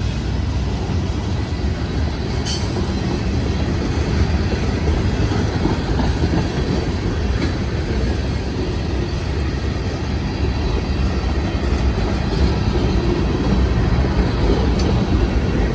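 Freight cars rolling past at close range: a steady rumble of steel wheels on the rails, with one sharp click about two and a half seconds in.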